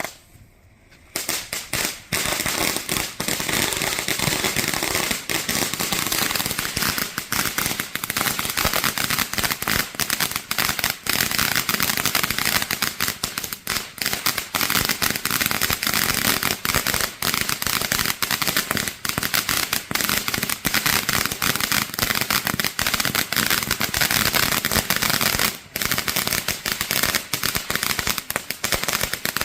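Backyard fireworks crackling: a dense, rapid run of sharp pops that starts about a second in and keeps going, with one brief lull near the end.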